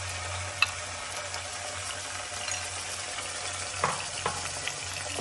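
Marinated chicken strips sizzling in hot oil with chopped garlic in a wok: a steady frying hiss, broken by a sharp tap about half a second in and two softer knocks near the end.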